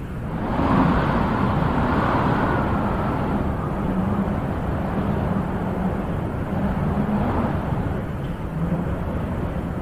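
Wind blowing in gusts, with a stronger swell about a second in that slowly dies down, then rising and falling again.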